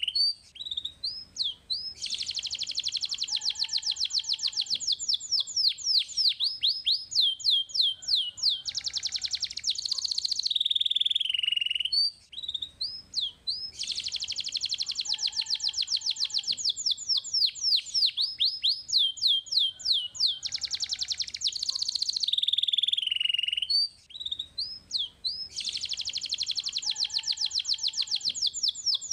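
Domestic canary singing: long, rapid trills of high notes alternate with quick rising and falling swoops. The same sequence of phrases repeats about every twelve seconds, as if looped.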